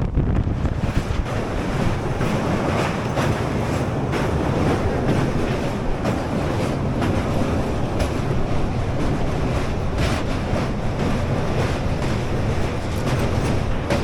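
Suburban local train running at speed, a steady rumble of wheels on the rails with occasional faint clicks.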